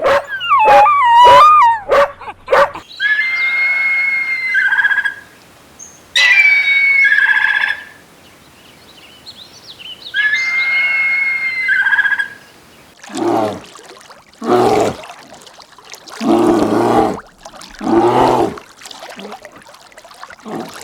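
A series of animal calls. It opens with a dog whining and howling in wavering, gliding pitches for about two and a half seconds. Three higher, steadier calls from another animal follow, then a run of five lower calls about a second apart.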